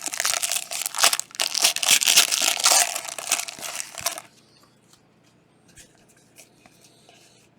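Foil wrapper of a Panini Prizm trading-card pack being torn open and crinkled for about four seconds. After that come a few faint ticks of cards being handled.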